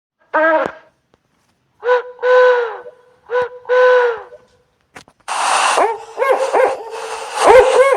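Animal calls: a short falling call, then two pairs of hoots, each a short note followed by a longer steady one. About five seconds in, a noisier clamour of many quick overlapping calls begins.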